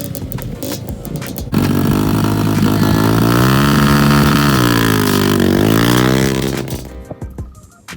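Dirt bike engine running. It jumps louder about a second and a half in, the revs rise and fall through the gears, and it fades away about a second before the end.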